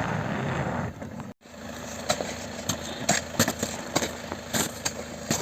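A car's engine running as the stuck car tries to pull forward out of snow. It cuts off suddenly about a second in, then a quieter engine idle follows under scattered sharp knocks.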